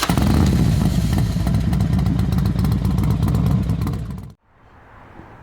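Loud motorcycle-like engine revving with rattling clicks that cuts off abruptly about four seconds in, followed by quiet outdoor background.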